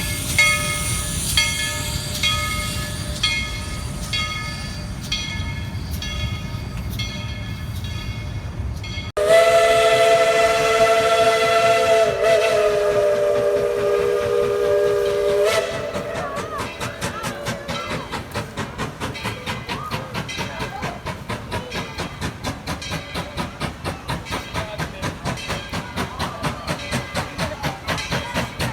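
A steam locomotive's bell ringing in an even rhythm. It is followed by a long blow of about six seconds on the engine's steam chime whistle, several tones sounding together and wavering briefly partway through. Then come the locomotive's exhaust chuffs in a quick, steady beat.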